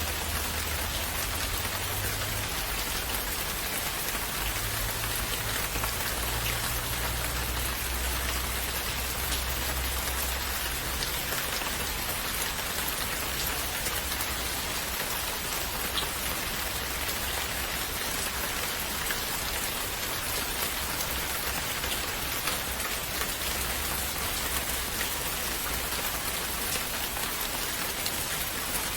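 Steady rain falling, an even hiss with scattered sharper drop ticks, and a faint low rumble underneath during the first half.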